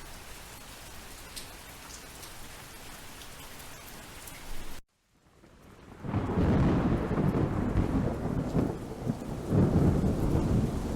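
Steady rain falling, then the sound cuts out suddenly just before halfway and fades back in as a louder thunderstorm: heavy rain with deep rolling thunder that swells and eases.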